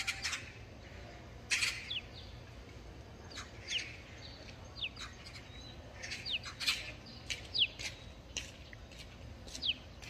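Wild birds calling: scattered short, sharp chirps and several quick falling whistled notes, irregularly spaced.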